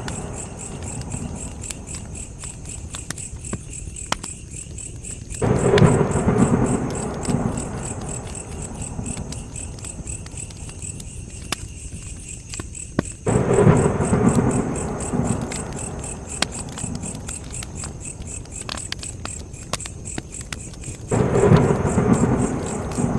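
Campfire crackling with scattered sharp pops, under steady chirping of crickets. Three times, about eight seconds apart, a loud low rushing rumble swells up suddenly and fades over a few seconds.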